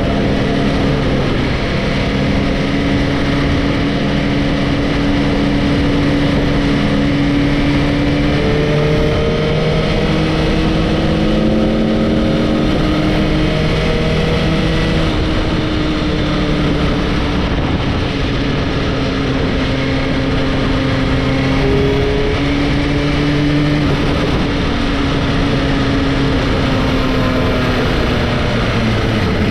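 Motorcycle engine running while riding, under a heavy, steady rush of wind and road noise, its pitch drifting gently up and down.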